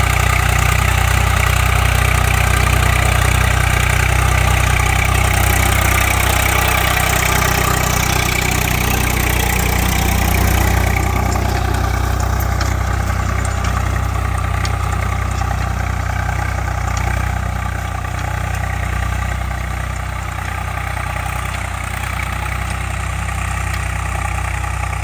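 Swaraj 744 FE tractor's three-cylinder diesel engine running steadily with a deep, even engine note. The higher hiss over it thins out about ten seconds in.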